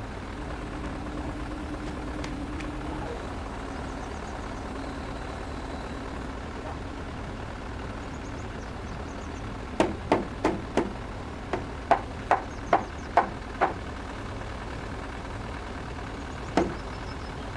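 An engine idles steadily under a run of about ten sharp knocks over some four seconds in the second half, then one more knock near the end: blows struck on the timber frame while its joints are driven together.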